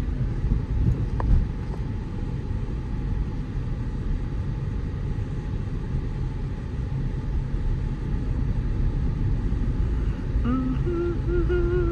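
Steady low rumble of a car's engine and tyres heard from inside the cabin while driving. Near the end a person hums a few held notes.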